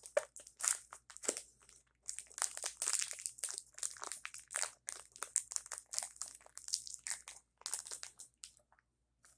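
Crinkling and crunching from a Nature Valley peanut butter dark chocolate protein bar and its wrapper being handled and eaten close to the microphone: rapid bursts of sharp, high crackles that thin out and stop near the end.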